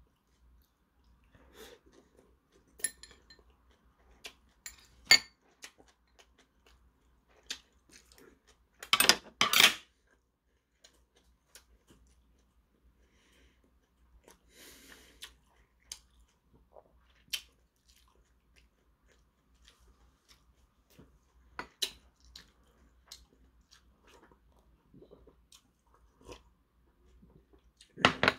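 A man chewing a leaf-wrapped bite of food, with scattered soft mouth clicks and smacks. About nine seconds in come two short, loud, noisy bursts, the loudest sounds, and near the end a sharp loud knock.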